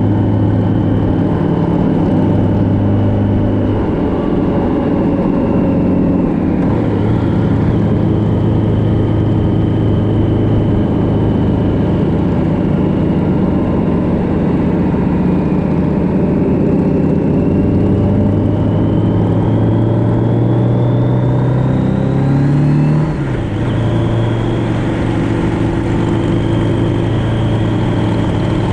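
Motorcycle engine running at cruising speed, with road and wind rush. About two-thirds of the way through the engine note climbs steadily as it accelerates, then drops suddenly with an upshift and settles steady again.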